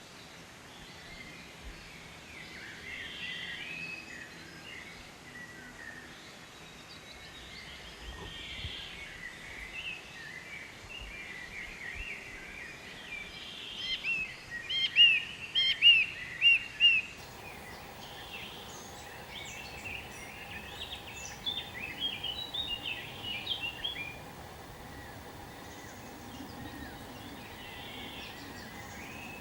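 Several songbirds chirping over a steady outdoor background. About halfway through there is a loud run of short, rising chirps, repeated five or six times. A faint steady hum sets in suddenly just after that.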